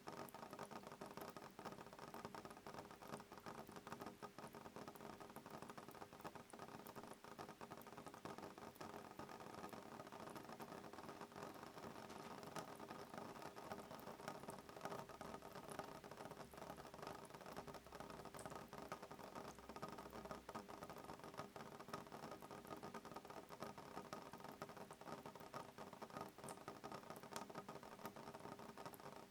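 Soft rain falling on a window pane: a faint, steady, dense tapping of drops with no thunder.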